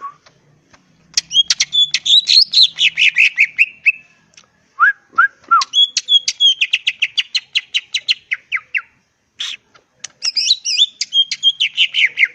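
Green leafbird (cucak ijo) singing loudly in three rapid chattering phrases, each a fast run of notes sliding down in pitch. Three lower whistled notes come just before the middle phrase.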